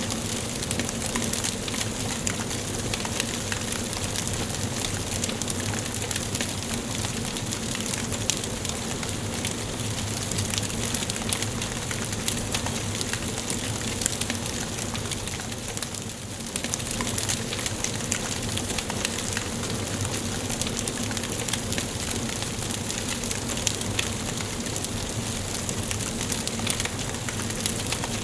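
Wood fire burning in a fireplace: a steady hiss with many small, sharp crackles and pops throughout. The sound dips briefly a little past halfway.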